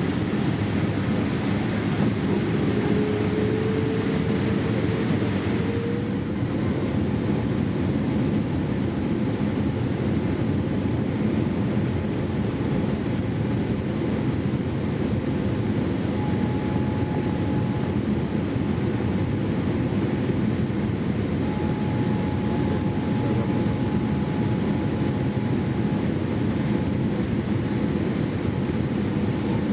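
Steady cabin noise inside a Boeing 787-8 airliner in flight: an even rushing of engine and airflow noise. A faint whine rises slightly in pitch a few seconds in, and a faint steady tone comes and goes later.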